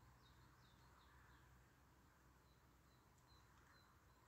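Faint songbird calls over a quiet background hiss: a quick run of five short down-curving chirps in the first second and a half, then a series of brief, evenly spaced high notes in the second half.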